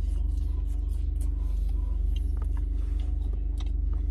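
Steady low rumble of a car engine idling, heard inside the cabin, with a steady hum over it. Small scattered clicks and rustles of fries being eaten from a plastic container.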